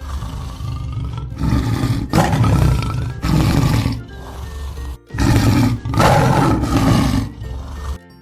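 A large animal roaring, several long rough roars in a row, over background music.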